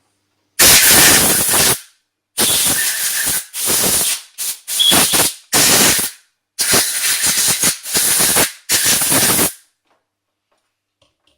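Compressed-air blow gun blasting turbocharger parts clean before reassembly, in about nine short, loud bursts of rushing air.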